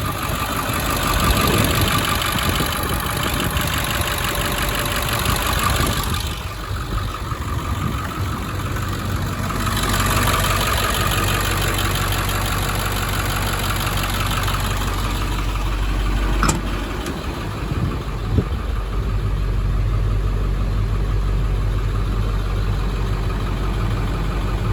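International 4700 truck's diesel engine idling steadily, with two short sharp clicks about two-thirds of the way through.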